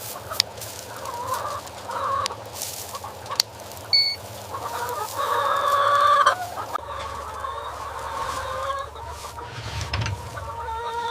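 Chickens clucking in short, repeated calls, loudest about halfway through, with a few sharp clicks among them.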